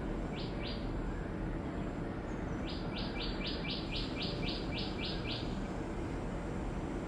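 A bird calling: two short, high notes, then after a pause a quick run of about a dozen repeated notes, about four a second, over steady low background noise.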